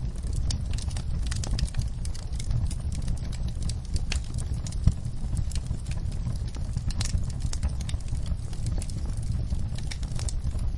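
A wood fire crackling: frequent sharp pops and snaps over a steady low rumble, with one louder pop about five seconds in.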